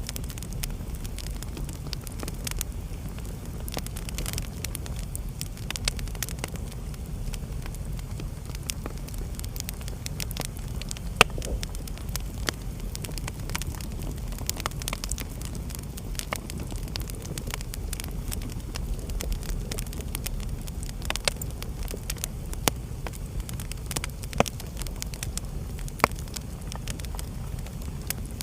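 Wood fire burning in a fireplace: a steady low rumble of the flames with scattered sharp crackles and pops, the loudest about eleven seconds in.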